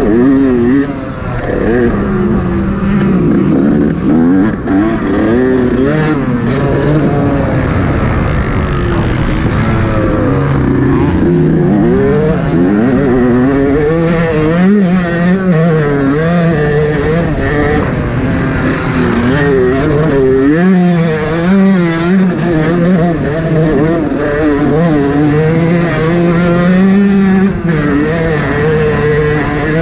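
Yamaha YZ125 two-stroke motocross bike engine being ridden hard, its pitch rising and falling over and over as the throttle opens and closes.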